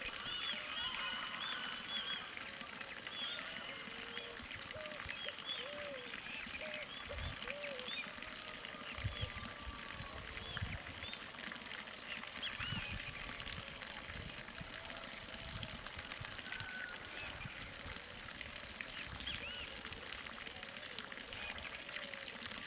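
Outdoor birdsong ambience: many short, arching chirps from birds at a higher and a lower pitch, over a steady high pulsing tone, with a few low thumps around the middle.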